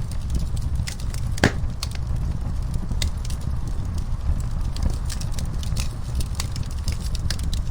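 Fireplace fire crackling: irregular sharp pops and snaps over a steady low rumble, with one louder pop about a second and a half in.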